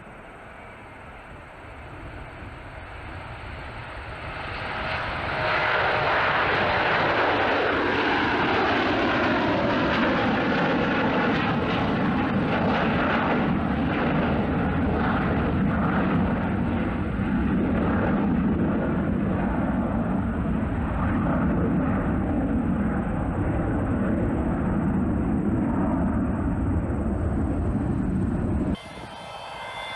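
Boeing 727's three Pratt & Whitney JT8D turbofan engines at power: the sound builds over the first five seconds into a loud, steady jet noise, with whining tones that slide down in pitch for several seconds. It cuts off abruptly near the end.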